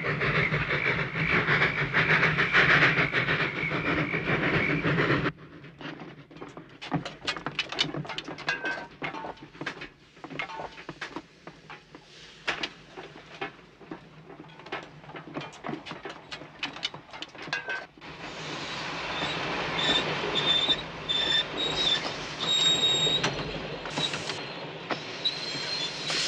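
Steam train running: a loud rush of the train for about five seconds, then a quieter stretch of irregular clicks and rattles, after which the rushing noise returns with high metallic squeals.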